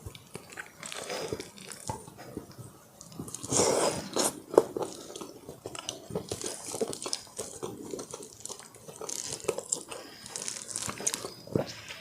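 Close-miked eating sounds: bites and chewing of crispy Korean fried chicken, with crunching that is loudest about four seconds in and sharp wet mouth clicks between chews.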